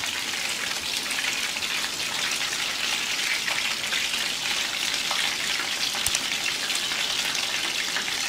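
Cream-coated hake fillet strips deep-frying in hot oil in a pan: a steady, crackling sizzle, with a single sharp click about six seconds in.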